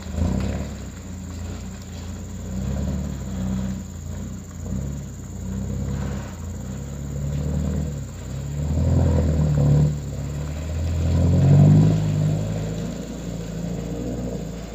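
Diesel engine of a loaded palm-oil fruit truck running under load on a climb, a low drone that swells and eases, loudest about nine and twelve seconds in.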